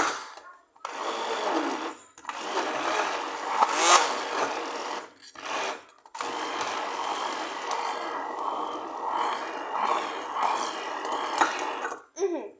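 Electric blender running in several bursts, stopping briefly about two, five and six seconds in before a long final run.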